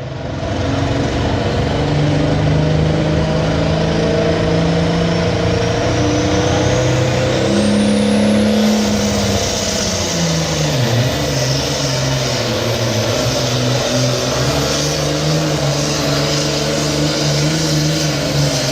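International 1066 light pro stock pulling tractor's turbocharged diesel engine running hard under load, pulling the sled down the track. A high whistle climbs over the first half and then holds, and about halfway through the engine pitch sags as the load builds and then recovers.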